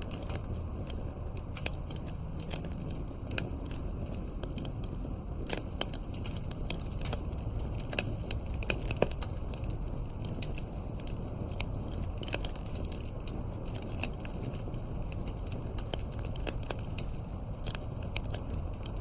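Wood campfire crackling, with frequent irregular pops and snaps over a steady low rumble of burning.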